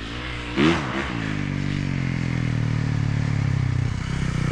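Yamaha YZ450F four-stroke single-cylinder dirt bike engine running, with a quick rev up and back down about half a second in, then pulling steadily and growing slowly louder.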